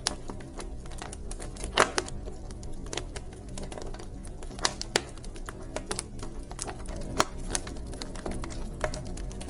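Wood fire burning in a fireplace, crackling with irregular sharp pops over a steady low rumble of flames; one of the loudest pops comes about two seconds in.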